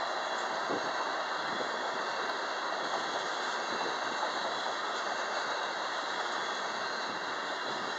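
Freight train's covered hopper cars rolling past, steel wheels on the rails making a steady rolling noise with small scattered clicks.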